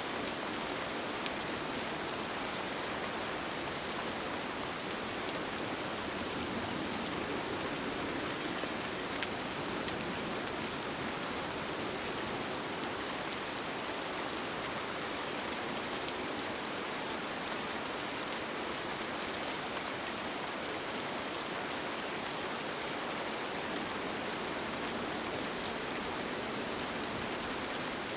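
Steady rain falling on a tent, with faint scattered drop ticks.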